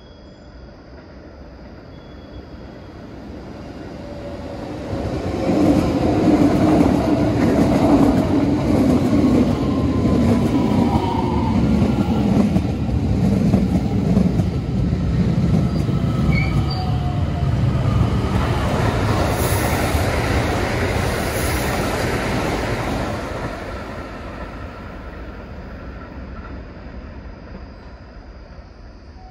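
A Keikyu Main Line train passing through a station at speed without stopping. The rumble builds over the first few seconds, stays loud for about eighteen seconds with a motor whine sliding down in pitch, then fades away.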